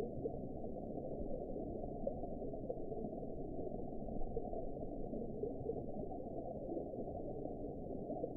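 Underwater ambience: a steady, muffled low rush of noise with nothing high in it, dotted with faint brief blips.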